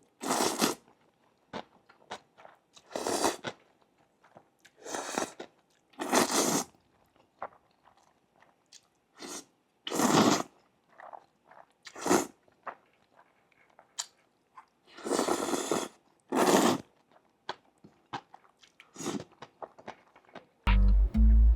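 Close-miked eating: a person biting and chewing, a series of short, separate crunchy mouthfuls with quiet gaps between.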